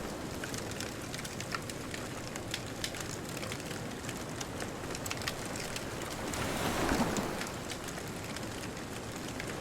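Wood fire crackling, with many small sharp pops, over a steady hiss of distant surf; about seven seconds in, a wave swells and washes in.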